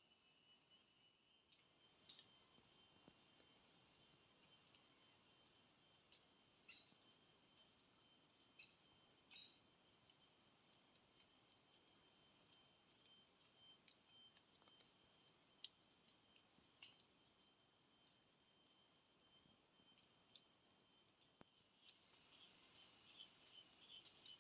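Faint forest insect chorus: a steady high-pitched shrill drone with a rhythmic run of short chirps, several a second, coming and going in groups, and a few short sharp calls in the first half.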